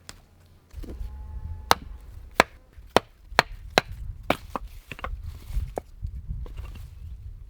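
Knife chopping on a cutting board: a series of sharp chops at uneven spacing, about two a second, over a low rumble.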